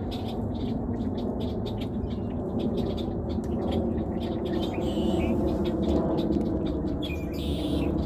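Birds chirping in many short, irregular calls over a steady low background rumble.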